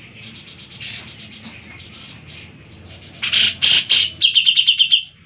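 Cucak jenggot (grey-cheeked bulbul) singing: quick chattering notes, then a few loud harsh calls past the middle, and a fast trill of about eight notes near the end.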